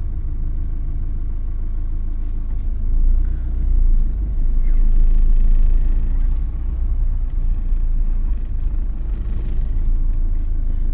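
Car driving slowly, heard from inside the cabin: a steady low engine and road rumble that swells a little a few seconds in, with a few faint clicks.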